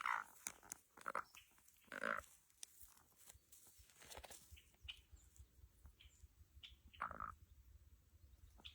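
Chickens calling: about five short, faint calls spread a second or two apart.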